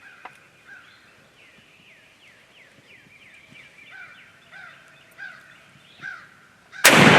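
Soft, short bird calls repeated over and over, then a shotgun blast near the end, with a long fading echo.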